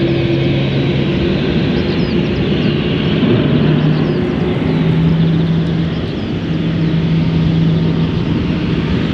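Boeing 787-8's GEnx turbofan jet engines running loud, a steady jet roar with a low engine tone that steps up in pitch a few seconds in.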